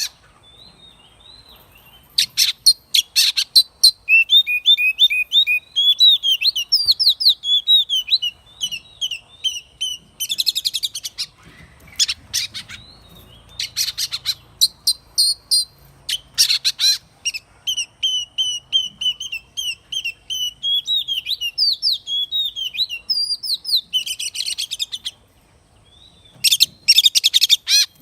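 Oriental magpie-robin singing: a long, varied run of quick whistled notes and warbles. It is broken several times by short, rough bursts that cover a wide range of pitch, and there is a brief lull near the end.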